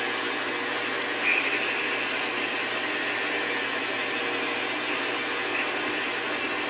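Metal lathe running while a tailstock drill bit bores into the end of a metal bar, a steady machine noise with a light hum. A brief sharp rattle about a second in, and a fainter one near the end, as the bit cuts.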